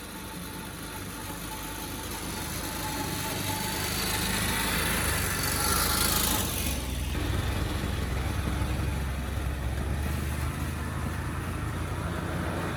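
A motor vehicle engine running with a steady low hum. A rushing hiss grows louder over the first six seconds and cuts off about six and a half seconds in, while the engine hum carries on.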